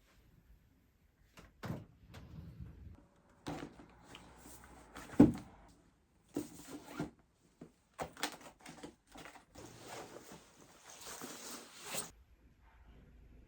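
Household handling noises: irregular clicks, knocks and rustling, with one sharp loud knock about five seconds in and a short stretch of rustling hiss near the end.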